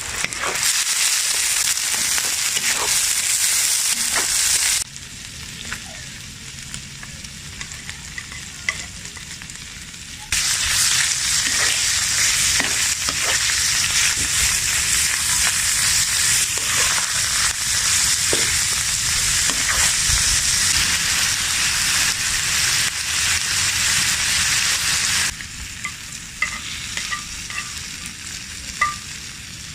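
Food frying in hot fat with a loud, steady sizzle and some stirring. The sizzle drops abruptly to a quieter hiss with scattered small pops about 5 s in and again near the end, then returns at full strength about 10 s in.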